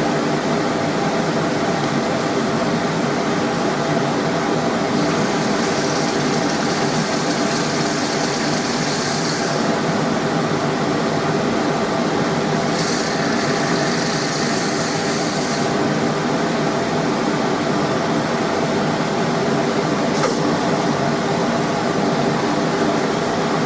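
Coke forge's electric blower running with a steady hum, and two stretches of high hissing partway through.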